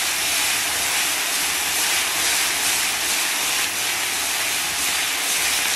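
Chili bean paste (doubanjiang) frying in hot oil and caramelised rock sugar in a large iron wok: a steady, loud sizzle as it is fried until the red chili oil comes out.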